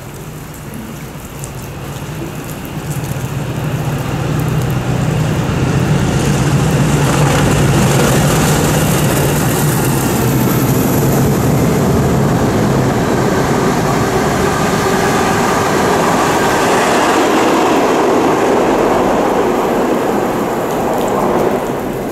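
Diesel-locomotive-hauled train of passenger coaches passing through at speed. A low engine note builds as it approaches, then a long steady rush and clatter of coach wheels on the rails, which drops away near the end. Rain falls under it all.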